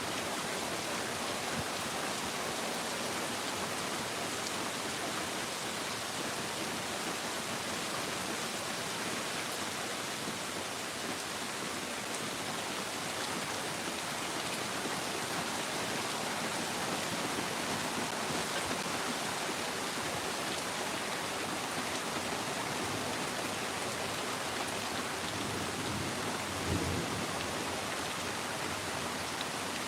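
Steady rain falling, an even hiss. A brief low thump near the end.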